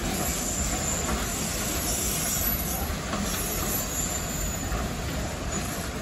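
Freight wagons rolling past on the rails, with a steady noise of wheels on track.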